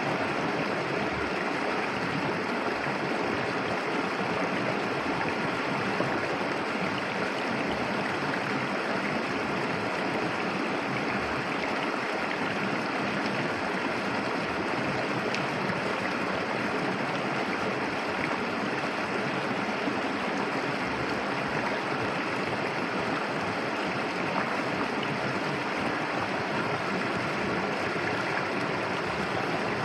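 Clear, shallow river flowing with a steady rushing and gurgling over its bed.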